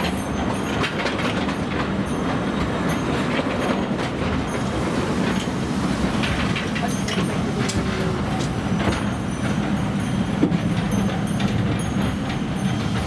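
Small narrow-gauge forest-railway train running, heard from aboard: a steady rumble and low drone, with irregular clicks of wheels over rail joints.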